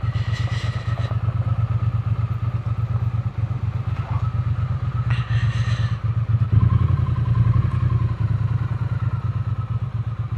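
Triumph Speed Twin 900's parallel-twin engine running at low revs with a steady, even beat, getting louder about six and a half seconds in.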